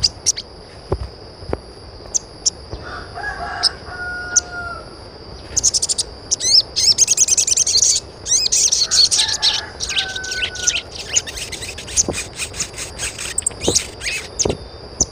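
Birds chirping in quick high runs, with two longer pitched calls about six seconds apart over a steady high tone.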